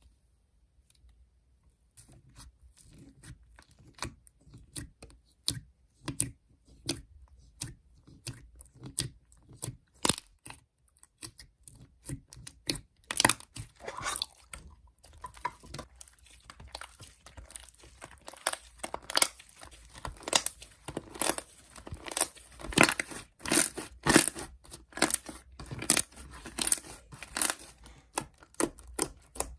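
Milk chip bread slime being squeezed, stretched and pressed by hand: quick irregular sticky pops, clicks and tearing crackles that start about two seconds in and grow louder and denser toward the end.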